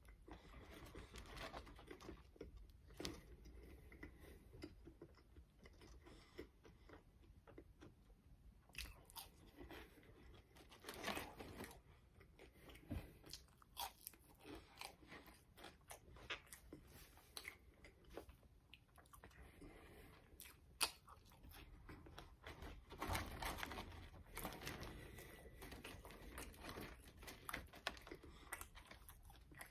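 Quiet close-up crunching and chewing of crispy french fries, a run of small irregular crunches with a few louder bites.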